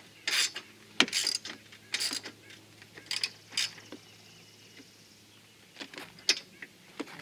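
Hand ratchet wrench snugging down the nuts of a strut tower brace: short bursts of ratchet clicks about once a second, dying away after about four seconds, then a few single clicks near the end.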